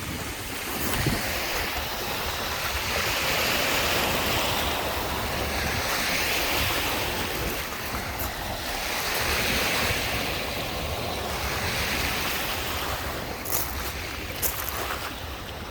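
Lake Michigan waves breaking and washing onto the shore, surging and fading about every three seconds, with wind rumbling on the microphone.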